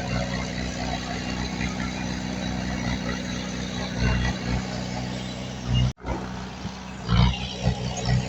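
Diesel engine of heavy earthmoving equipment running steadily at a low, even pitch. The sound drops out abruptly for a moment about six seconds in, then comes back with a few louder surges.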